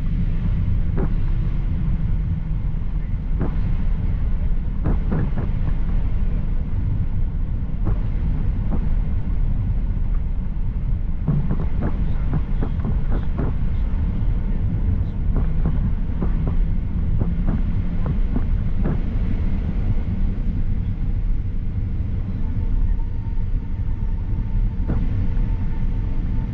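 Steady low rumble of a Boeing 737-800 heard from inside the passenger cabin, with scattered short knocks and rattles. A faint steady tone joins in the last few seconds.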